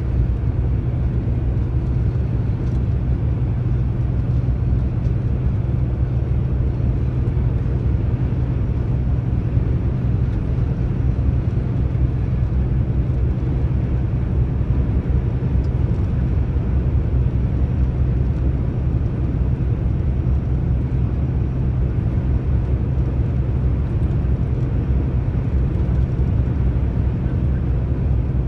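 Steady low drone of a long-haul truck's engine and tyres on the road, heard from inside the cab while driving.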